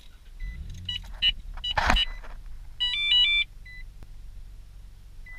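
A Nissan car's engine starts and runs at a steady idle. Over it come short electronic beeps and, about three seconds in, a brief stepped multi-note chime from the radar detector powering up. There is a single knock near two seconds.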